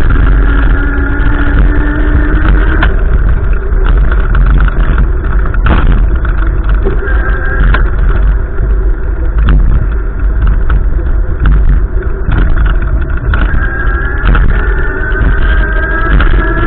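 Strong wind buffeting the microphone as a heavy rumble. A vehicle engine runs underneath, its pitch rising slowly near the start and again near the end as it accelerates.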